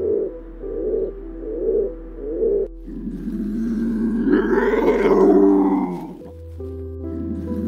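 Feral pigeons cooing in an even rhythm, then a lynx giving a long, rough call that builds for about two seconds and fades, lasting about three seconds. Soft background music runs underneath.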